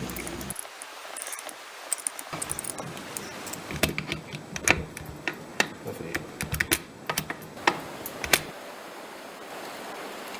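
Irregular small metallic clicks and taps, like tools and small engine parts being handled and set down, stopping a couple of seconds before the end and leaving a steady hiss.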